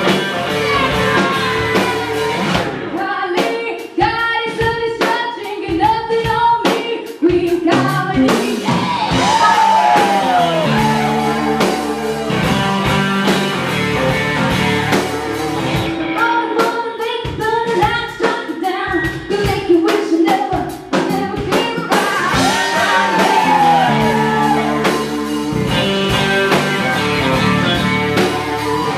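Live rock band playing with a woman singing: electric guitar, bass and drum kit under a lead vocal.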